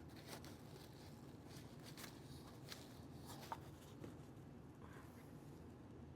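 Near silence: room tone with a few faint clicks and rustles of small handling, one sharper click about three and a half seconds in.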